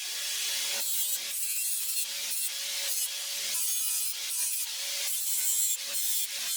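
Rhythmic back-and-forth rasping strokes of a hand tool working material, about two strokes a second.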